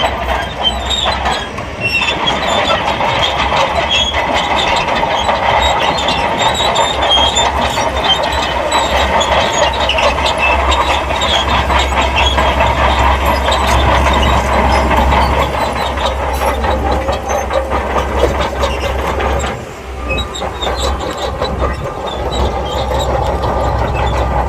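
SHANTUI crawler bulldozer working: its diesel engine running steadily with a dense metallic clatter from its steel tracks, easing briefly about twenty seconds in.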